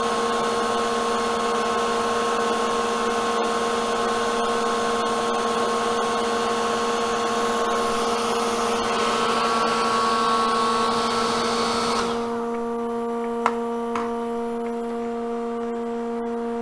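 Hair dryer blowing, drying fresh water-based paint on a bowl turning on a lathe; it is switched off about twelve seconds in. A steady machine hum from the lathe setup runs underneath and continues after the dryer stops.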